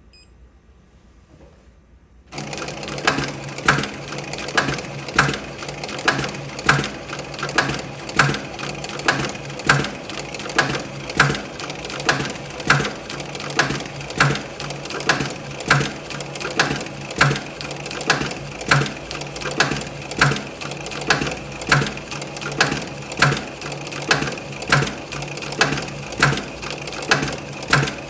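Electronic pattern post-bed sewing machine starting up about two seconds in and sewing steadily, with a regular louder click about twice a second over its running hum.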